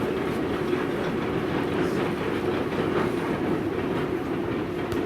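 Steady running noise of a moving train, with a constant low hum.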